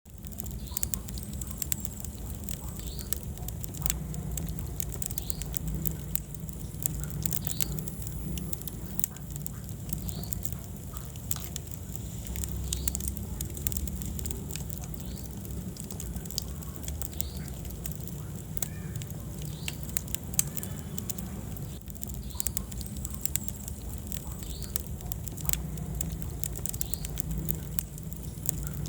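Wood fire burning in a fireplace: frequent sharp crackles and pops over a low, steady rumble of the flames.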